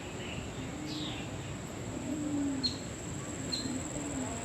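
Birds calling: a falling whistle about a second in, then two short sharp chirps, with a few low drawn-out tones, over a steady hiss and a constant thin high-pitched whine.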